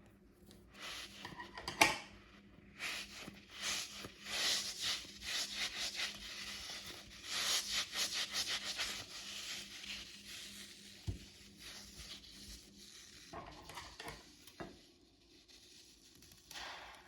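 Rubbing and scraping as a squishy stress toy is handled and cut open. The strokes are short and come in quick succession, with a sharp click about two seconds in, and they grow sparser and softer in the second half.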